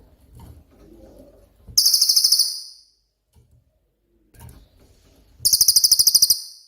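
Cililin songbird giving two loud, very high, rapid trilled bursts, the rapid-fire 'tembakan' call, each lasting under a second: one about two seconds in and one near the end.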